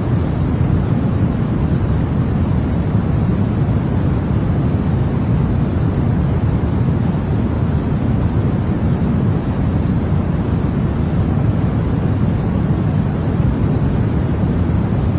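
Continuous white noise for baby sleep: a steady, deep, even rushing hiss that never changes, heaviest in the low end.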